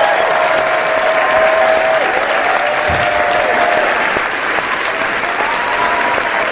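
Crowd applause, dense and steady, with long held calls over the clapping that slide up and down in pitch.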